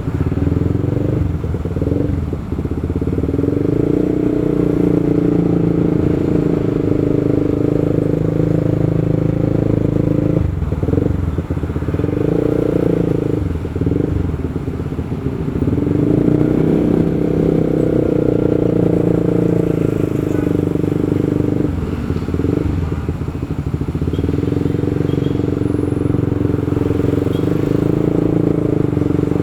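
Motorcycle engine running steadily while riding on the road, the note dipping briefly a few times as the throttle eases off.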